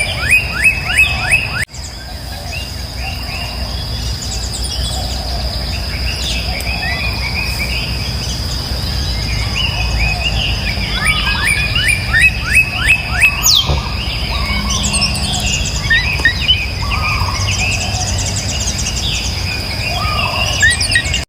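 Small birds chirping: quick runs of repeated short chirps, about five a second, near the start and again about eleven seconds in, with scattered calls in between. Underneath is a steady high-pitched whine and a low rumble.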